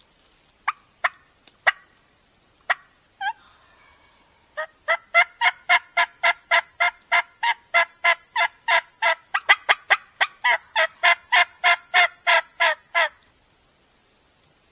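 Turkey yelps: a few sharp clucks, then a long, even run of about three yelps a second lasting some eight seconds.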